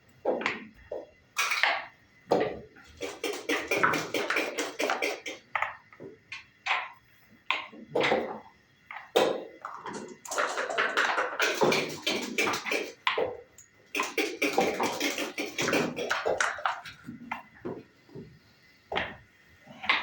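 Backgammon play: a rapid, uneven run of clicks and clacks as checkers are set down and slid on the board and dice are rolled.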